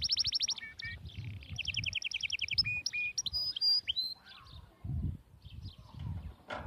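Small bird singing: fast trills of repeated high chirps, then a few whistled notes, fading about four seconds in, over the low rustle of fabric being handled.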